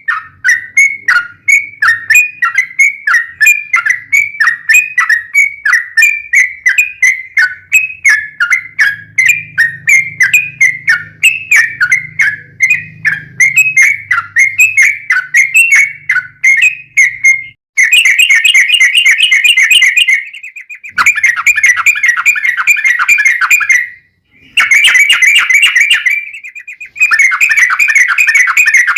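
Sooty-headed bulbul (trucukan) song: a string of quick chirping notes, about two to three a second. About 17 seconds in, it gives way to long rapid trills in runs of a few seconds, broken by short gaps.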